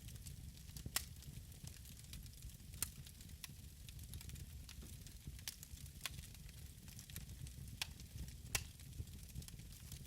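Wood fire crackling in a fireplace: irregular sharp pops and snaps, a few seconds apart, over a soft hiss and a low steady rumble.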